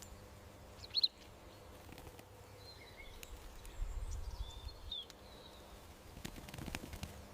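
Garden ambience with small birds calling: one sharp high chirp about a second in, then a few thin whistled calls in the middle. A low rumble sits under the middle, and a cluster of short clicks comes near the end.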